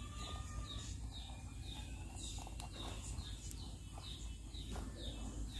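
Small birds chirping in quick, repeated short high notes that fall in pitch, several a second, over a steady low rumble, with a few faint clicks.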